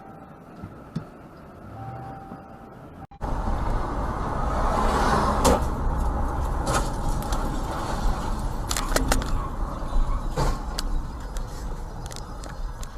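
A car driving, heard from the vehicle: a loud, steady low rumble of engine and road noise, broken by several sharp knocks. Before it, about three seconds in, a quieter stretch with a short, steady beep repeating about every two and a half seconds cuts off abruptly.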